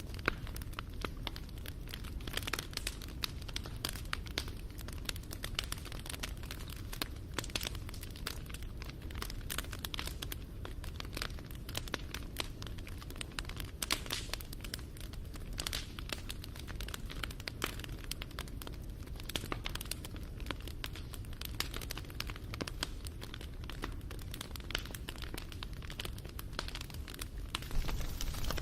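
Wood fire crackling: a dense, irregular run of sharp pops and snaps over a low rumble, getting a little louder near the end.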